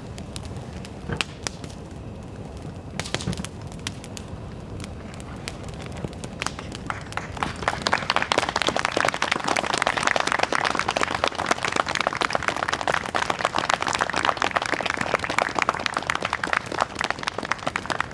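Bonfire crackling with scattered pops, then audience applause that starts about six or seven seconds in, grows to a dense, even clapping and carries on.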